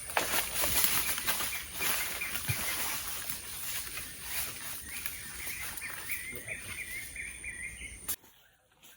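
Forest ambience: scattered crunching and rustling from people moving through undergrowth under a steady high-pitched whine, with a bird trilling a warbling song about five seconds in. The sound cuts off abruptly near the end.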